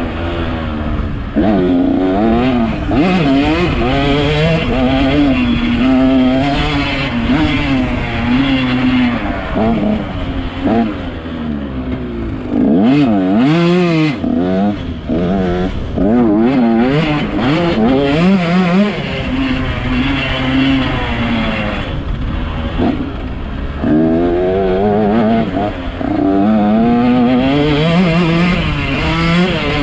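A 125cc two-stroke motocross bike's engine revving hard and falling back again and again, its pitch climbing and dropping with throttle and gear changes as it is ridden around the track. The engine backs off briefly about a third of the way through and again about three quarters through.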